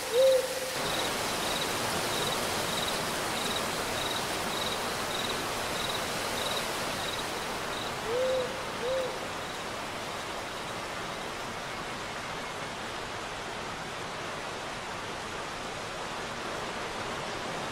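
An owl hooting: a short arched hoot right at the start and two more about eight seconds in. Crickets chirp in an even, faint pulse through the first seven seconds or so, over a steady watery hiss.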